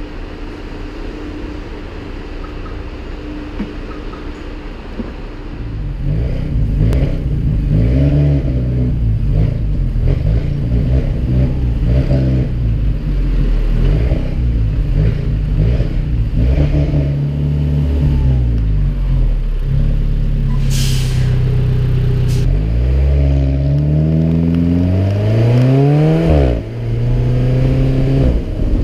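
Alfa Romeo 4C Spider's turbocharged four-cylinder engine idling quietly, then pulling away and running under load. About five seconds in it grows louder, its pitch rising and falling, and near the end it climbs steeply through the revs before a brief drop at a gear change. A short hiss comes about twenty seconds in.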